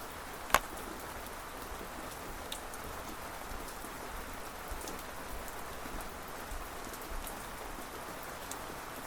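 Steady rain falling, with scattered drops ticking on a surface. A single sharp tap about half a second in stands out as the loudest sound.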